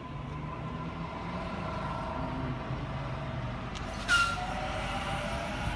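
Sydney Trains Waratah electric train pulling away, its traction motors giving a steady whine over a low rumble. About four seconds in there is a brief, loud hiss with a short squeal.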